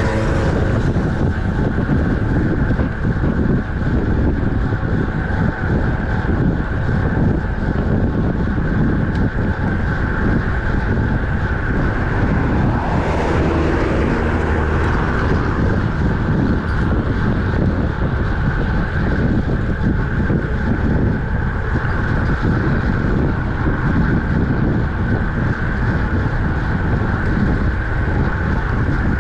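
Wind rushing over the microphone with road noise while riding a road bike at speed, loud and steady, swelling briefly about 13 seconds in.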